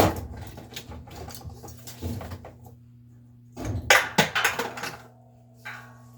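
A sharp knock, then a quick run of clattering knocks and clicks about four seconds in, as of hard parts or tools being handled during a washing-machine teardown. A low steady hum runs underneath.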